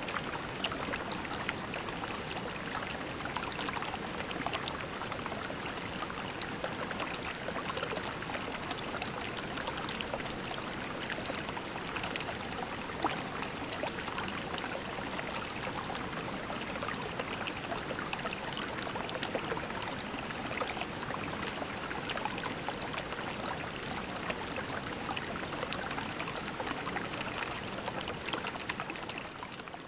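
Shallow creek water babbling steadily over pebbles, a continuous splashy trickle that begins to fade out near the end.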